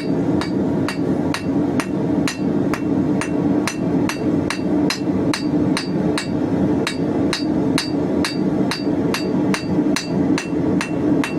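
Hand hammer striking hot steel bar on an anvil in a steady rhythm, about two and a half blows a second, forging the 16 mm square bar. Under it runs the steady roar of the gas forge's burner.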